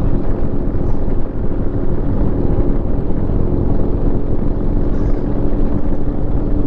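Harley-Davidson V-twin motorcycle engine running at a steady speed, with wind noise on the microphone.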